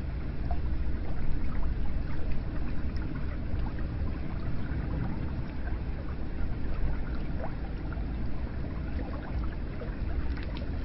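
Hot-spring water flowing and pouring steadily into a bath, a full low-pitched wash of water with small splashes and drips scattered through it.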